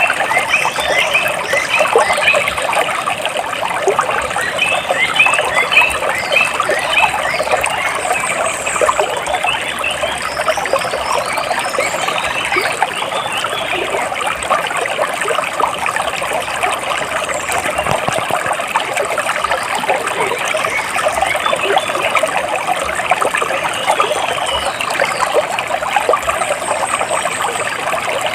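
Water splashing and trickling steadily, with birds chirping over it: quick runs of short repeated chirps near the start and again a few seconds later, and thin high calls further on.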